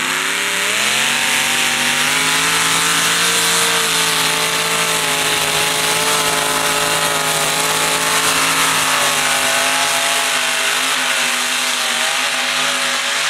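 572-cubic-inch Rodeck engine of a mini modified pulling tractor at full throttle down the track: the revs climb over the first second, then hold high and steady, and drop away at the very end as the pull finishes.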